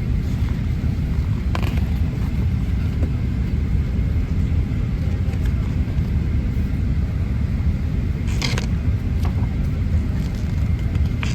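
Cabin noise inside a Boeing 767-300: a steady low rumble of the engines and airflow, with a few brief rattles about a second and a half in, around eight and a half seconds, and near the end.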